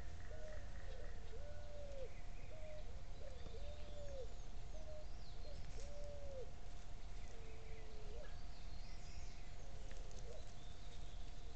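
A bird calling over and over: short arched hoots, one about every second, growing sparser in the second half, with faint higher chirps of other birds and a steady hum underneath.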